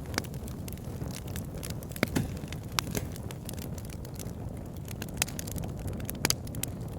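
Campfire burning: a steady low rumble of flames with irregular crackles and sharp pops of burning wood, a few louder pops about two seconds in and near the end.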